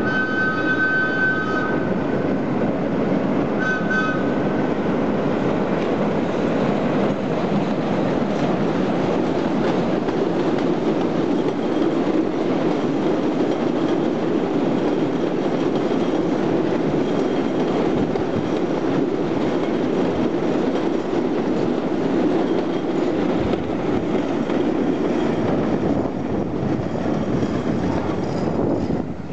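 Heritage train running past on the rails, led by electric locomotive No.12 Sarah Siddons with wooden carriages and steam locomotive Metropolitan No.1 at the rear: a steady rumble of wheels and carriages. Two short high wheel squeals come in the first four seconds.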